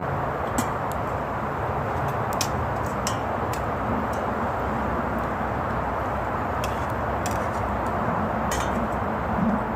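Campfire crackling, with a handful of sharp pops over a steady low rumbling noise.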